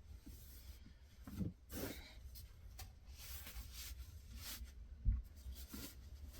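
Faint rustling of clothes and bedding being handled, in short scattered bursts, with a soft thump about five seconds in.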